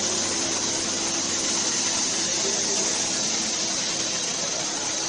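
Industrial floor-cleaning machine running: a steady, even hiss with no breaks.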